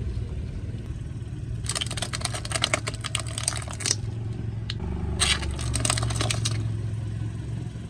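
A car tyre rolling over and crushing something brittle. There are two spells of dense crackling, the first about two seconds in and lasting about two seconds, the second shorter, over the car's steady low engine hum.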